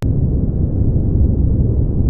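Brown noise: a steady, deep hiss, strongest in the bass, with almost no treble.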